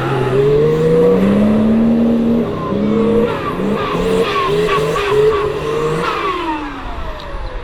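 Off-road 4x4 engine revving: it climbs steadily in pitch for the first couple of seconds, then surges up and down in short repeated throttle stabs, and drops off about six seconds in.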